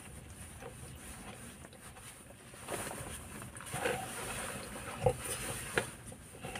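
A person eating close to the microphone, chewing with a few short mouth smacks or clicks in the second half.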